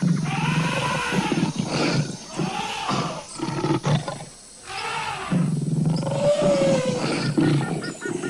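Big-cat roars played as a sound effect for an animal fight: long rising-and-falling roars one after another, with a short break about four and a half seconds in.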